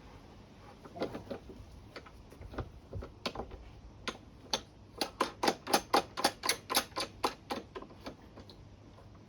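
A run of sharp mechanical clicks, scattered at first, then a quick regular series of about four to five a second in the middle before slowing and stopping.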